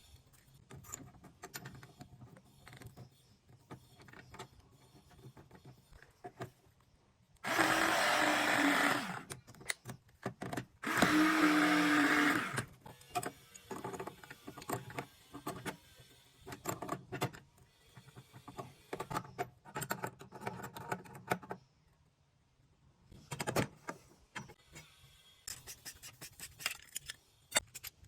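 A power drill running in two bursts of about a second and a half each, with scattered clicks and knocks of tools being handled before, between and after.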